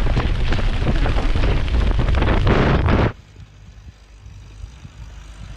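Loud wind rushing over the microphone in a skydive, cutting off abruptly about three seconds in to a much quieter low rumble.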